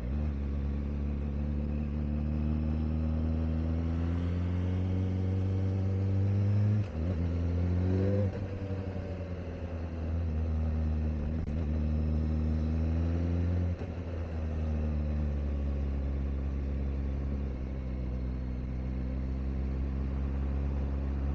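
Kawasaki Ninja ZX-4RR's inline-four engine under way, heard raw from the bike. It climbs in pitch, drops briefly about 7 seconds in as if on a gear change, climbs again, eases off after about 8 seconds, and runs steadily after a short dip near 14 seconds, held at moderate revs because the bike is still being run in.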